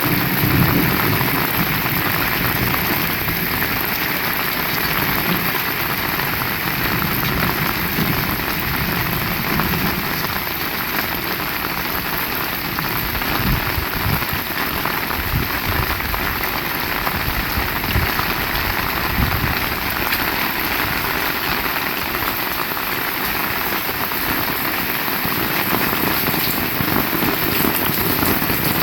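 Heavy rain falling steadily, an even unbroken hiss of rain on surfaces.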